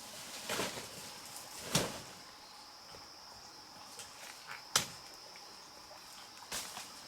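A steady high insect drone, broken by four sharp knocks spread over several seconds, the loudest nearly five seconds in.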